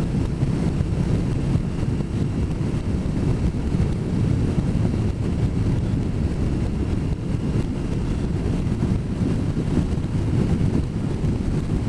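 Steady low rush of wind buffeting the microphone of a motorcycle riding at speed, mixed with road and engine noise.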